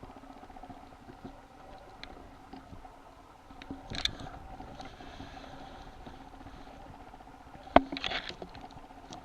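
Toy poodle puppies moving about, their little claws pattering and scrabbling, with scattered small clicks and two louder bursts of scrabbling about four and eight seconds in, over a steady low hum.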